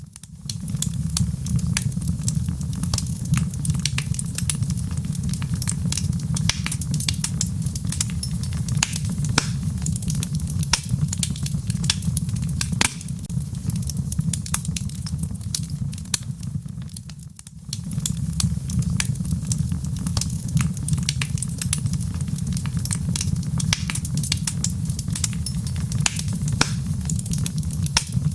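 Logs burning in a fireplace: a steady low rumble of flame with frequent sharp crackles and pops. The sound dips briefly about 17 seconds in, then carries on as before.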